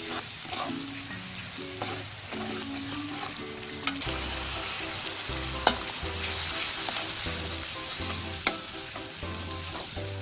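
Shrimp sizzling as they fry in hot oil in a wok, with a spatula stirring them and clinking sharply against the pan a few times. The sizzle grows louder in the middle as egg is scrambled in among the shrimp.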